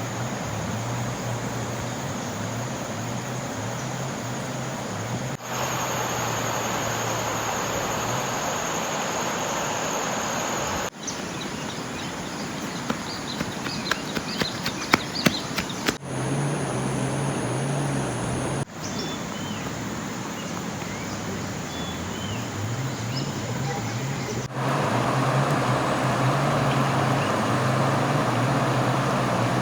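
Steady rushing water noise in a run of short edited clips, with a low hum in some of them and a scatter of clicks near the middle.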